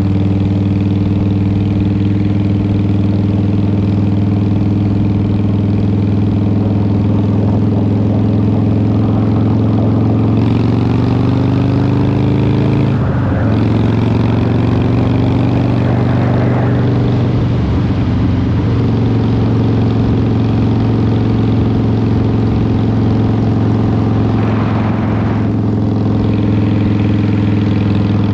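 Harley-Davidson Twin Cam 88 V-twin running through Vance & Hines pipes while riding. It cruises steadily, climbs in pitch about ten seconds in, breaks briefly and drops back near the middle, then settles into a steady cruise again.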